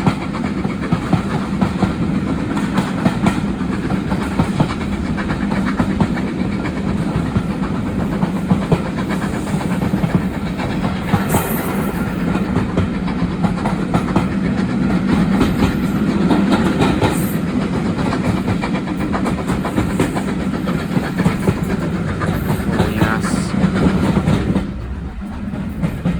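Railway carriage running along the line, heard from on board: a steady rumble of wheels on the rails with frequent clicks over the rail joints. The noise drops briefly about a second and a half before the end.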